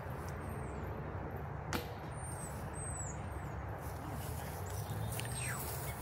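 Outdoor ambience: a bird's short, high, down-slurred chirps repeat several times over a steady low rumble, with one sharp click a little under two seconds in.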